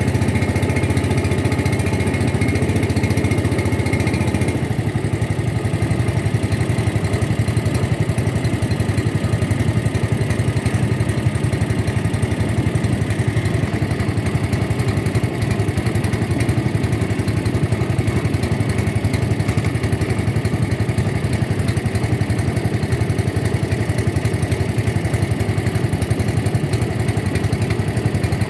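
Boat engine running steadily with a continuous low drone; its note shifts slightly about four and a half seconds in.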